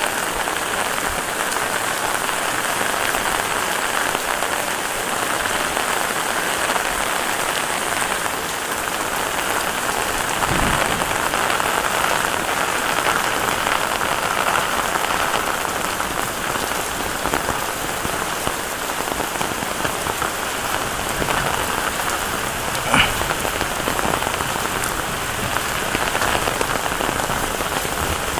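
Heavy rain falling steadily in a continuous hiss, with a single short sharp knock about two-thirds of the way through.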